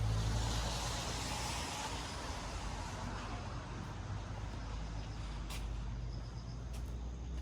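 A vehicle engine running with a steady low hum, with a hissing swell in the first couple of seconds. Faint cricket chirps and a few sharp ticks come in over the second half.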